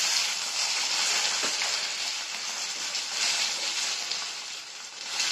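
Sliced raw potatoes sizzling in hot oil in a stainless steel kadai while being sautéed with a metal spatula: a steady frying hiss that eases slightly toward the end.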